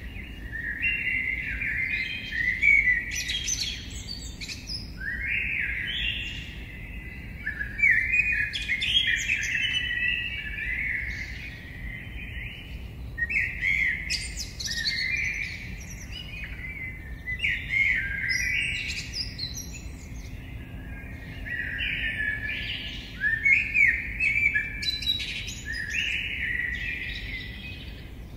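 Several birds singing and chirping in an overlapping chorus, one phrase following another without a break, over a faint steady low rumble.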